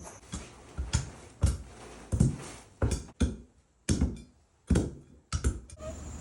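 A tool striking masonry: about ten sharp knocks, spaced unevenly, roughly one every half second to second.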